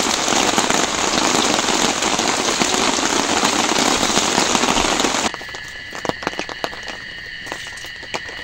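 Heavy rain pattering densely. It cuts off abruptly about five seconds in, giving way to a quieter steady high-pitched chirring with scattered sharp clicks.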